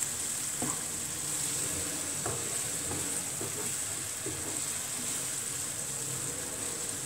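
Sautéed onions and spice masala sizzling steadily in a nonstick frying pan while a wooden spoon stirs them, scraping and tapping the pan now and then.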